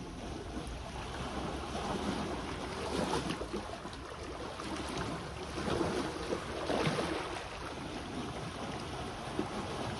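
Sea waves washing onto the shore, swelling about three seconds in and again around seven seconds, with wind rumbling on the microphone.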